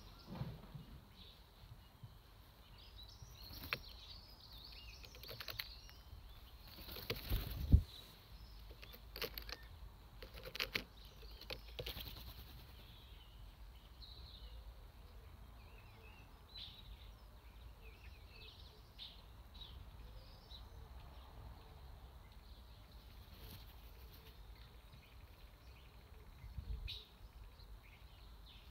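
Birds chirping on and off over faint outdoor background noise, busiest in the first half, with a sharp low thump about eight seconds in and a softer one near the end.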